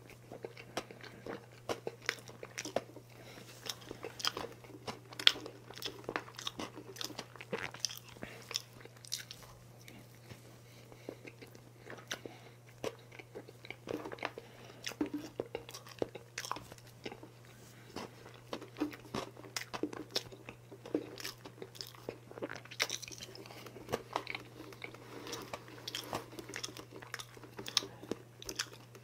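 Close-miked chewing of soft chocolate layer cake, with many short wet mouth clicks throughout, over a steady low hum.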